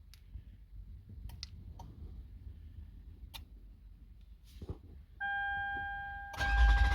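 A few faint clicks, then about five seconds in a steady electronic warning tone from the 2008 Toyota Sienna's dash. Just before the end the starter motor begins cranking the engine with a rapid, even chugging while the tone continues. The engine cranks but does not catch, which the owner puts down to the immobilizer not reading the key's transponder through its coil.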